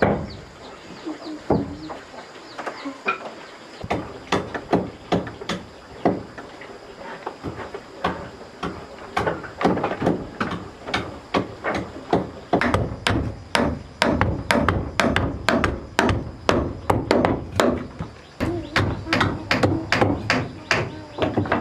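Series of sharp blows on wood, sparse at first, then coming quickly, about two to three a second, from about nine seconds in.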